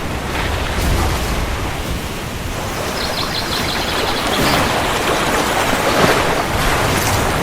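Heavy rain falling steadily, a dense hiss that swells in the second half, with a low rumble of thunder underneath, strongest about a second in.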